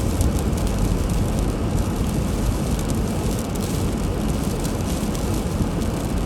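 Steady low rumble and hiss of a car driving on a snowy road: road, tyre and engine noise with no break.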